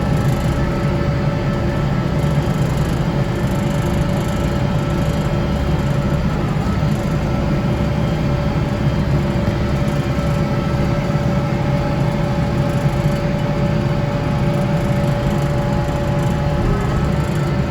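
Kubota tractor's diesel engine running steadily with its front-mounted snow blower working: an even, continuous drone with a faint constant whine.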